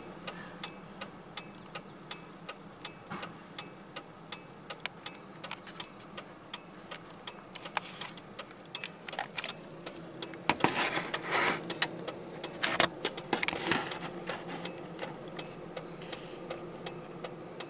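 Pickup truck's hazard-light flasher clicking steadily, several clicks a second, over a low steady hum. About ten seconds in, a louder rushing noise rises for a few seconds and fades.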